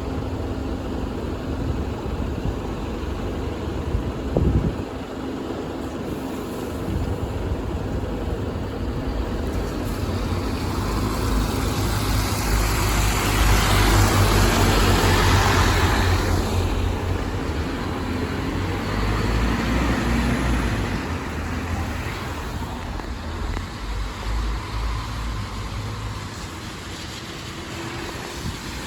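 City bus engine running with traffic noise, swelling as a bus passes close by, loudest about halfway through and then fading. A short knock sounds about four and a half seconds in.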